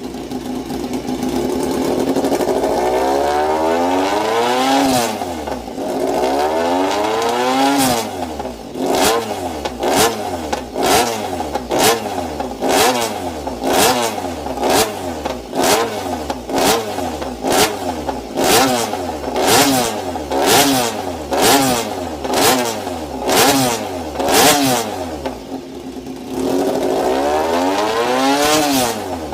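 Motorcycle engine free-revved through its exhaust: a few long rises and falls in engine speed, then a run of sharp throttle blips about one a second, and long revs again near the end.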